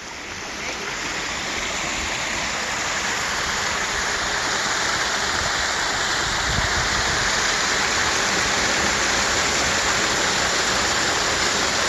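Small creek waterfall, about five feet high, rushing steadily with a full flow after heavy spring rain. The rush grows a little louder over the first few seconds, then holds even.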